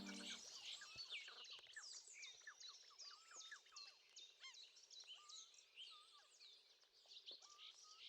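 Faint birdsong: several small birds chirping and whistling in quick, overlapping short calls, slowly fading out. The last held notes of a music track die away at the very start.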